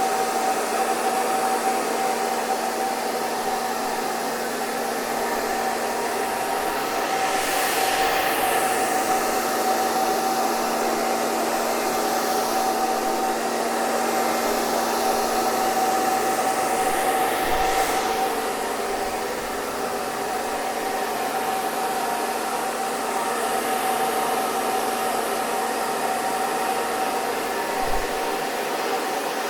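Hair dryer running steadily: a continuous rush of blown air over a constant motor hum. Twice the rush briefly sweeps in tone.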